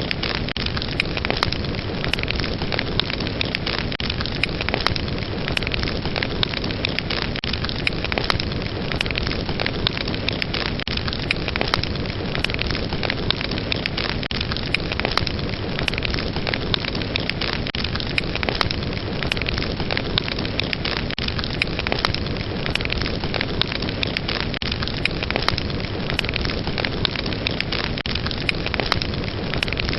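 Fire crackling in a fireplace: a steady hissing bed with dense crackle and frequent sharp pops.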